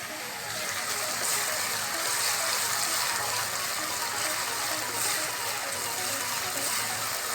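Onions and ginger-garlic paste frying in hot oil, with a steady sizzle.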